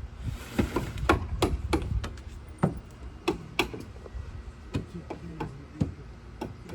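Irregular sharp knocks and taps, about two a second, from hand work on a wooden deck.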